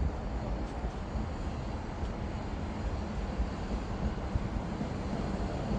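South Western Railway passenger train running at the platform with a steady low rumble.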